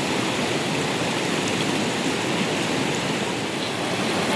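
Heavy monsoon rain falling, a dense, even hiss of water that holds steady throughout.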